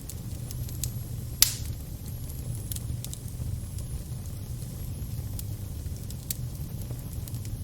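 Fire crackling over a steady low rumble, with scattered sharp pops and one loud pop about a second and a half in.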